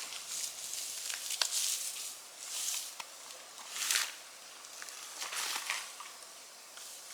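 Slow footsteps crunching and rustling on dry ground litter, a step about every second or so, fainter in the second half.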